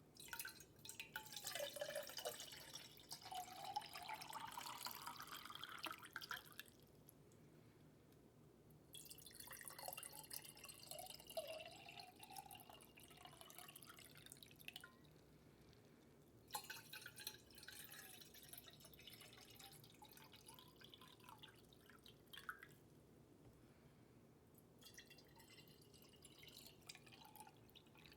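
Close-miked water dripping and trickling in four bursts of several seconds each, with short quiet pauses between them.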